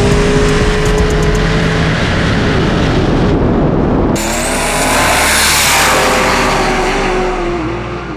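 Diesel drag-racing engine at full throttle with a held whining tone, cut off abruptly about four seconds in. A second loud run follows, swelling and then falling in pitch as it goes by.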